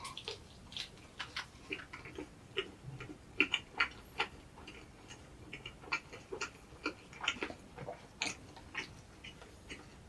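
Close-up mouth sounds of someone chewing egg drop toast: an irregular series of small clicks and smacks, several a second.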